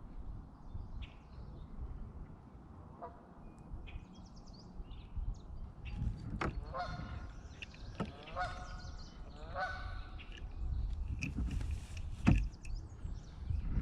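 Geese honking, a few calls about a second and a half apart in the middle, over a steady low rumble, with faint small bird chirps and a sharp knock near the end.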